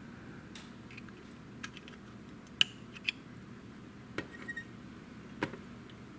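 Small sharp clicks and taps of hobby tools and plastic model-kit parts being handled, about eight scattered clicks, the loudest about two and a half seconds in.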